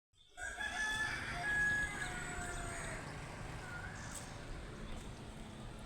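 A bird calling: one long drawn-out call lasting about two and a half seconds, then a short gliding call later on, over steady background noise.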